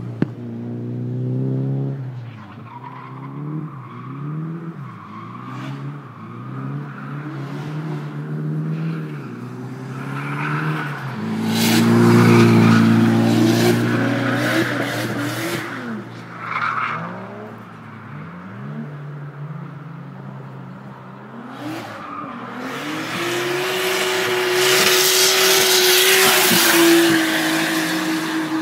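Toyota Chaser JZX100 drift car's engine revving up and down repeatedly, with two long stretches of loud tyre squeal and skidding, one about midway and one through the last several seconds.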